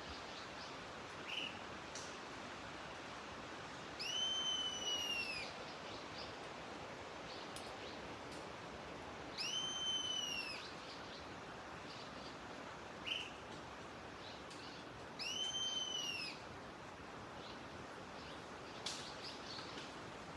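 A bird calling: three long whistled calls, each rising then falling over about a second and a half, spaced about five to six seconds apart, with a couple of short calls between them, over a steady hiss.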